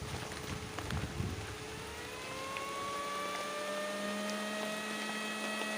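Wind or rain noise with a few knocks, then about a second and a half in a motor starts up: its whine rises in pitch and settles into a steady running tone.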